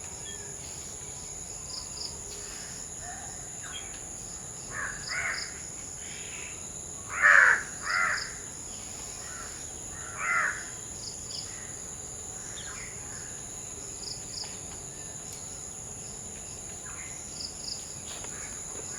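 Crows cawing: a handful of short caws in the middle, the loudest about seven seconds in. A steady high insect drone from crickets or cicadas runs underneath.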